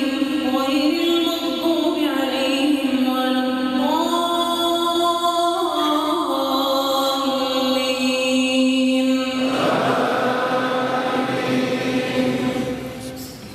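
A man chanting Quran recitation in a melodic tajweed style, holding long drawn-out notes that slide from pitch to pitch. The voice fades away near the end.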